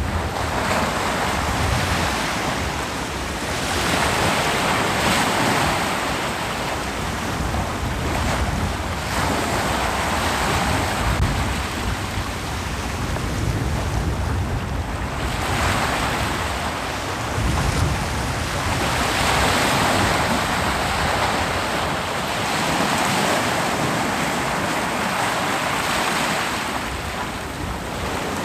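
Ocean surf breaking on a beach: a continuous rushing wash that swells as each wave comes in, roughly every four seconds.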